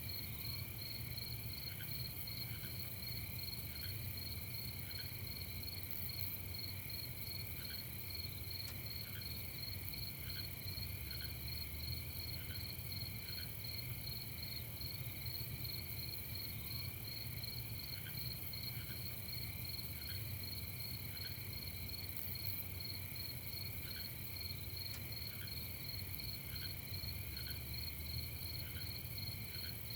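A chorus of crickets chirping steadily in several overlapping pitches, with fainter single chirps every second or so and a steady low hum underneath.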